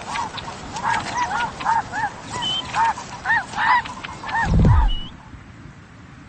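A flock of geese calling: short, repeated honking calls, several a second. A loud deep falling sound comes about four and a half seconds in, and the calls stop soon after.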